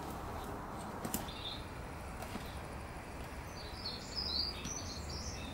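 Small birds chirping in short, quick, high notes, mostly in the second half, over steady background noise, with a faint click about a second in.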